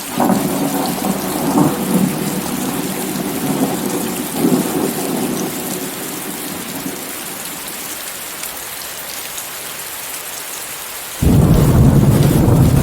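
Steady rain hissing, with thunder: a rumble breaks in at once and rolls for about seven seconds before fading, and near the end a second, louder crack of thunder starts suddenly.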